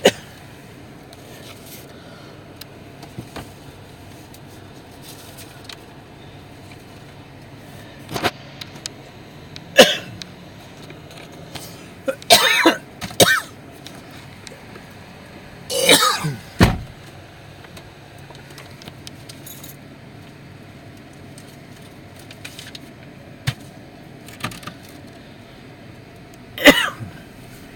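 A person coughing and clearing their throat several times over a steady low hum.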